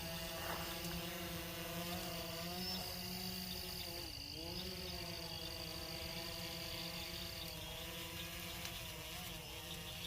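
Quadcopter drone's propellers buzzing in flight, the pitch wavering and dipping briefly about four seconds in as the motors change speed. Insects keep up a steady high chirring underneath.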